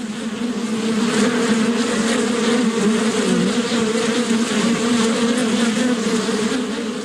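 Buzzing insects as a sound effect: a loud, steady drone whose pitch wavers slightly throughout.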